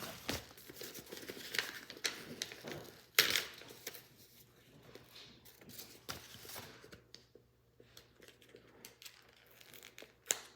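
Packaging crinkling and tearing as a parcel is opened by hand, with scattered small clicks and knocks. The rustling is busiest in the first half, with a louder burst about three seconds in, then thins to occasional light taps.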